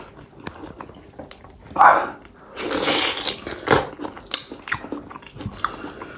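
Close-miked chewing and lip smacking of a mouthful of sauce-covered fried pork, with scattered wet clicks. There are louder bursts of mouth noise about two and three seconds in.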